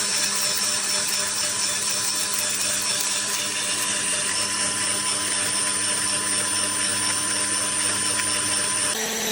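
Electric burr coffee grinder motor running steadily, with a brief change in its sound just before it cuts off.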